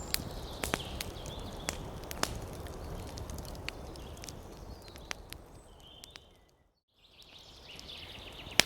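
Wood fire crackling: irregular sharp pops and snaps over a steady low rumble, with a few faint high whistling notes. About six and a half seconds in the sound fades out to silence for a moment, then fades back in, as at a loop point.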